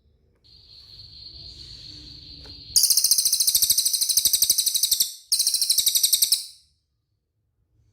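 Cililin bird singing: a steady high note held for about two seconds, then two runs of a rapid, very even high trill, the first about two seconds long and the second about one.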